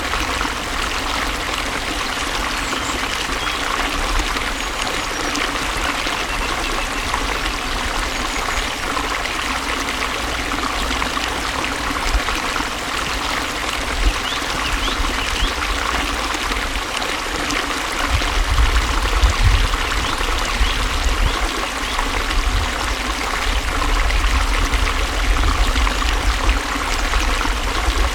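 Flowing water running steadily, with a low rumble that comes up about two-thirds of the way through.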